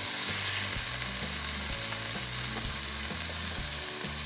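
Scallops sizzling in hot cooking oil in a ceramic-coated pot as a silicone spatula stirs and scoops them. They are seared golden brown and are being lifted out of the pan.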